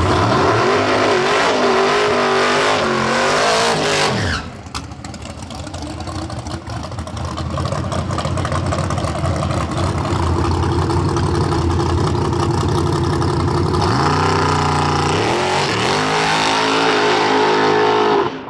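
Drag cars' engines at wide-open throttle. The pitch wavers for the first few seconds and drops sharply about four seconds in, then climbs again in repeated rising sweeps near the end before the sound cuts off suddenly.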